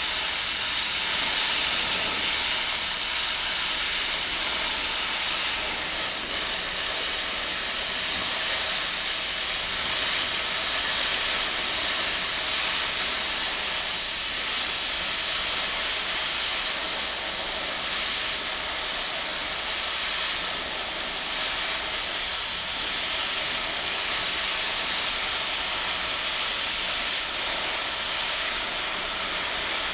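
Oxy-fuel cutting torch blowing a steady hiss as it washes old weld off a steel tractor lift-arm bar.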